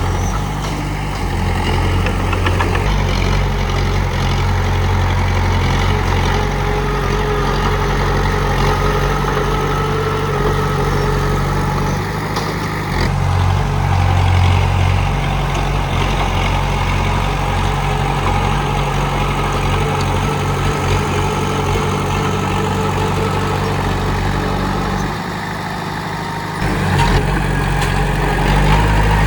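Komatsu D31P bulldozer's diesel engine running steadily, dropping briefly in level near the end and then picking up again.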